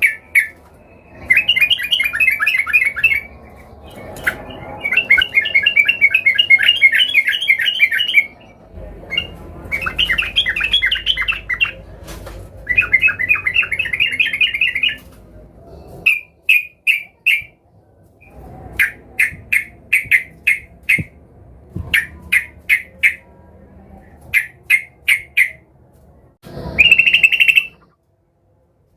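Yellow-vented bulbul singing loudly in rapid chattering phrases of one to three seconds, broken by short pauses. From about the middle on it gives groups of short, separate notes instead, ending with one more burst of chatter.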